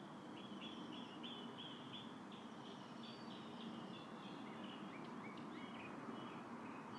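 Small birds chirping faintly in a quick series of short, high notes, about two or three a second, over a steady hiss of breeze.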